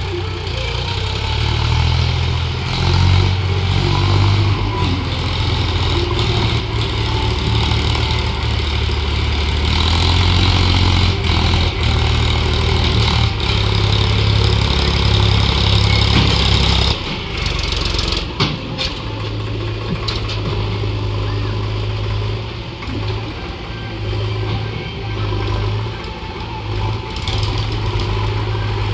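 Heavy vehicle's engine running with a loud, deep hum; about seventeen seconds in the sound changes and drops a little, then runs on at a slightly lower, more uneven level.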